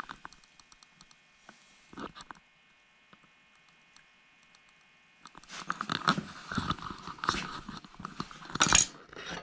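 Handling noise from a chainsaw and its chain being moved and turned: a few light clicks at first, then a busy run of clicking and clatter in the second half, with one louder knock near the end.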